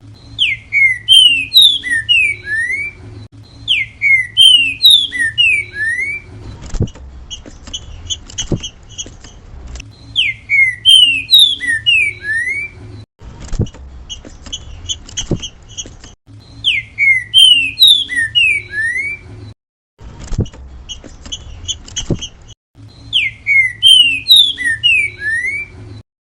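A trinca-ferro (green-winged saltator) repeating its 'grego mole boi' song, a phrase of several loud, slurred whistled notes sung over and over about every three seconds. Fainter, quick high notes fill the gaps between phrases, over a low steady hum with occasional clicks.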